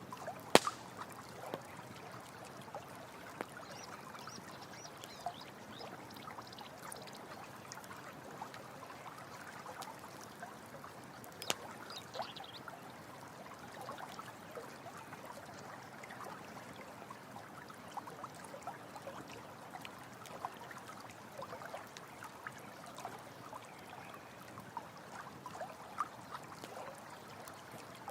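A stream running and trickling steadily, with sharp pops from a campfire, the loudest about half a second in and another near the middle.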